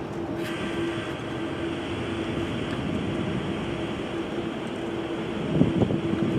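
Steady rumble of jet airliner engines with a constant hum. About half a second in, a band of airband-radio hiss switches on and holds. A few low thumps come near the end.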